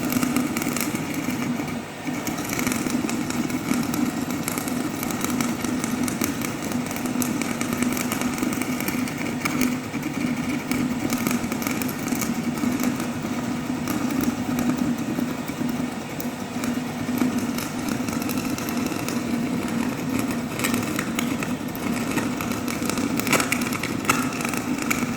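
Electric arc furnace melting metal: a loud, steady buzzing hum with irregular crackling throughout.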